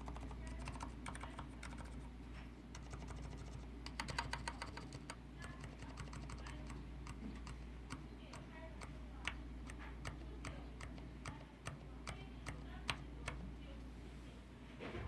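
Leopold FC900R PD mechanical keyboard with low-noise silent red (Cherry MX Silent Red) switches being typed on: a steady run of soft keystrokes, with a quick burst of rapid strokes about four seconds in.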